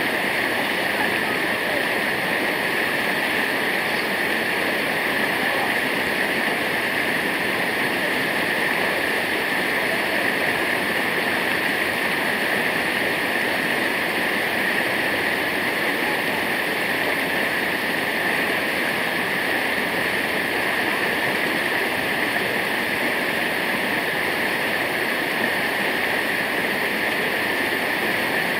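Waterfall rushing: a steady, unbroken roar of falling water that does not change throughout.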